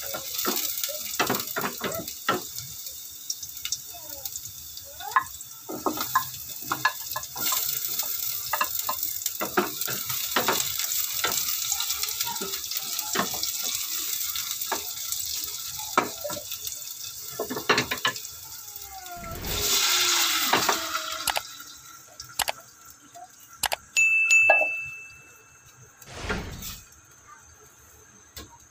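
Garlic and onion sizzling in oil in a stainless steel pot, with a wooden spatula clicking and scraping against the pot as it stirs. About two-thirds through comes a louder burst of sizzling as the canned sardines and their sauce go in, after which the sizzling dies down.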